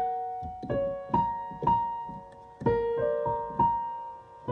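Piano playing the slow closing bars of a song's accompaniment: single notes and small chords struck at an uneven pace of roughly one or two a second, each left to ring and fade.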